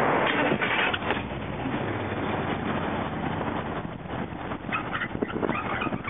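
A truck's motor running with a steady hum and a noisy rattle.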